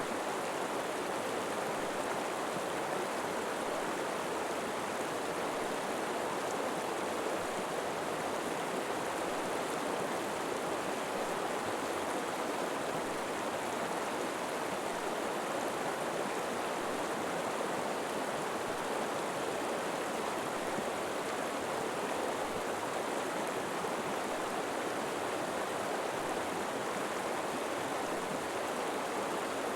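River water flowing and rushing steadily over rocks, an even unbroken wash of water sound.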